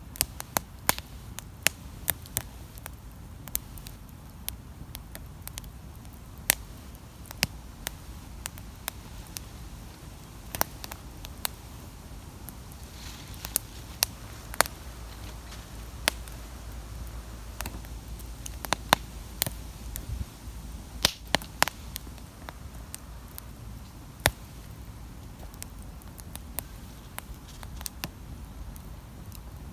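Wood campfire crackling: irregular sharp pops and snaps, a few each second, some much louder than others, over a low steady rumble.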